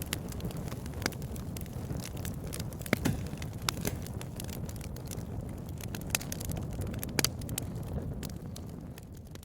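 Wood fire crackling, with irregular sharp pops and snaps over a steady low rushing sound; it fades down near the end.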